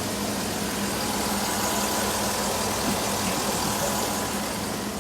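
A motor vehicle engine idling steadily: a constant low hum under a broad hiss.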